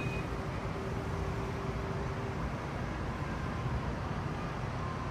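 Steady low rumble of city traffic heard from above the street, with a faint held hum for the first couple of seconds.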